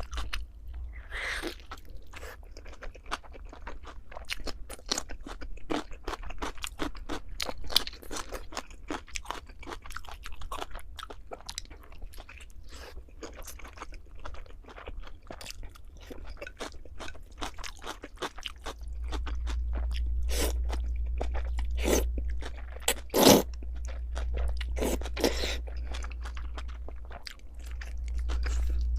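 A person chewing and crunching food close to the microphone, with dense, irregular crackly clicks of bites and chews and one louder crunch about two-thirds of the way through. A steady low hum runs underneath and gets louder from about two-thirds of the way in.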